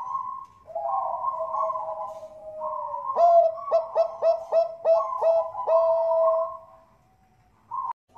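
Perkutut bangkok (zebra dove) cooing, with a run of about seven quick, clipped notes in the middle of the song. It fades to near silence about a second before the end.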